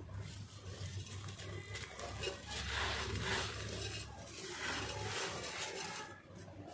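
Dry claypot pieces being crushed and crumbled close to the microphone: gritty crunching and crackling, loudest in the middle, over a low hum that stops about five seconds in.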